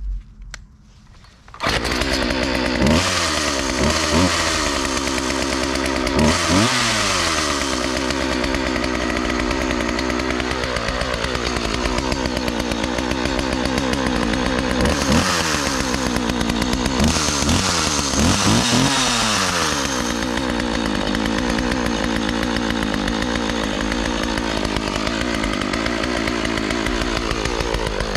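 A 1996 Husqvarna 36 two-stroke chainsaw, brought back to running after years of sitting, comes in about two seconds in and runs, with the throttle blipped briefly several times, each rev climbing and falling back to idle.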